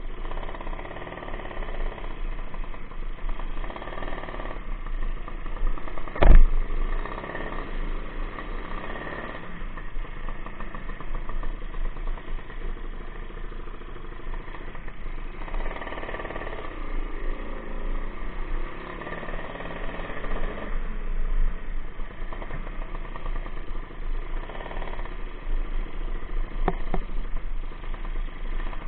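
Suzuki Satria two-stroke single-cylinder engine running without its air filter box while the bike is ridden slowly, the throttle opened and closed so the revs rise and fall several times. A sharp knock about six seconds in, and a fainter click near the end.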